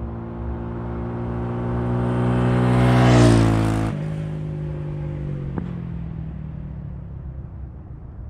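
Motorcycle engine passing by: its steady note grows louder to a peak about three seconds in, then drops in pitch and fades away.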